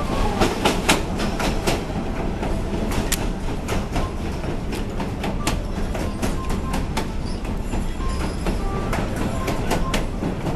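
Passenger train rolling along the track: a steady low rumble with sharp, irregular clacks of the wheels over the rails.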